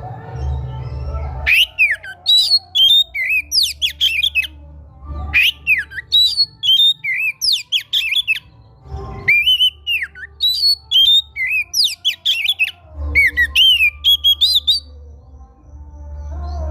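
Oriental magpie-robin (kacer) singing loudly in rapid, varied phrases of sweeping whistles and harsh squawky notes, in three bursts with short pauses between them, over a steady low hum.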